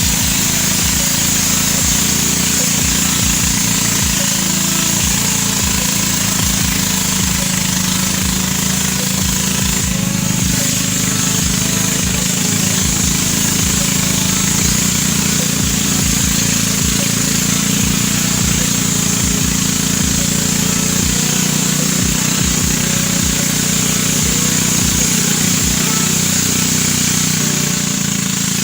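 Steady, loud rushing of a waterfall's falling water, an unbroken noise with a constant low rumble beneath it.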